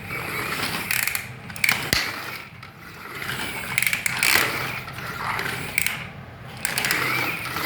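Remote-control toy crane's small electric motor and plastic gearbox whirring and ratcheting in several short runs that start and stop as it is worked from the remote.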